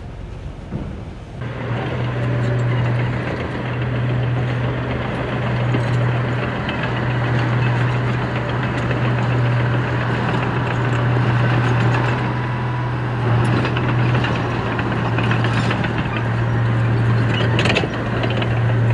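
Heavy diesel engine of earthmoving machinery running steadily under load. It comes in suddenly about a second and a half in, with a constant low drone.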